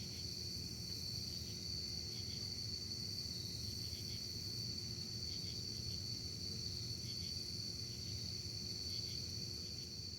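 Crickets trilling in a steady, unbroken high chorus, with faint separate chirps and a low steady rumble underneath.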